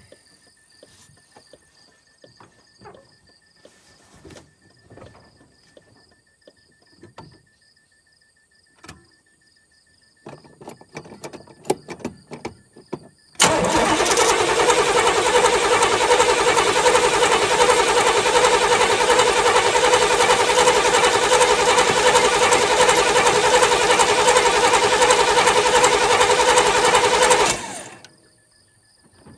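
Starter cranking the 1981 Oldsmobile's 307 V8 on a cold start: a steady, loud churn that begins suddenly about halfway in, runs about fourteen seconds without the engine catching, and cuts off near the end. The engine has sat since midwinter and has a newly fitted Edelbrock carburetor that is not yet hooked up properly, and it does not fire. Before the cranking, a few light clicks and handling noises.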